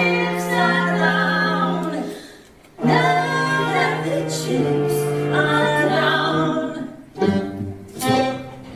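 Voices singing a cappella in close harmony, holding long sustained chords. The singing breaks off briefly about two and a half seconds in and again near the end.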